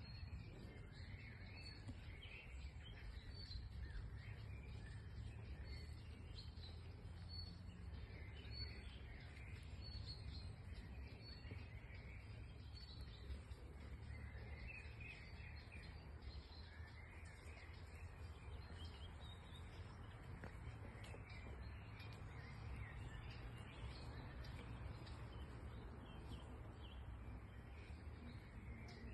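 Faint birdsong: many short chirps and calls from several birds, over a steady low background rumble.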